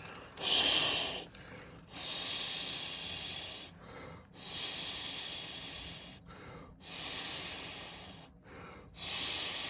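A person breathing heavily close to the microphone: five long breaths, about two seconds apart.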